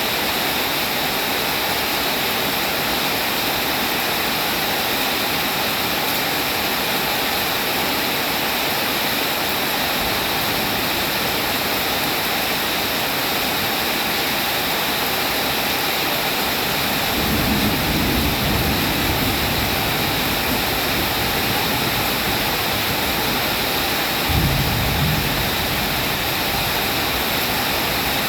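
Steady rain falling, a dense even hiss. A low rumble rises about two-thirds of the way through and again, more briefly, near the end.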